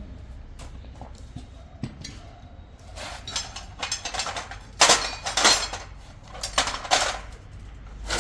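Metal parts clinking and knocking, a run of sharp strikes between about three and seven seconds in, over a low steady rumble.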